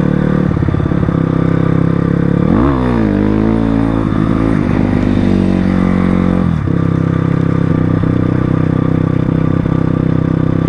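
Crossfire RM250 dirt bike engine running at a steady note, revving up about two and a half seconds in, its pitch rising and falling for a few seconds before it drops back to a steady note.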